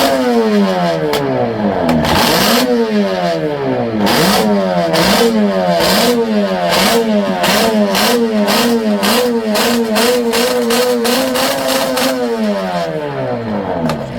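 Yamaha two-stroke racing motorcycle engine revved hard on the throttle: repeated blips with the pitch climbing and falling away, quicker blips in the middle, then held at steady high revs before dropping back near the end.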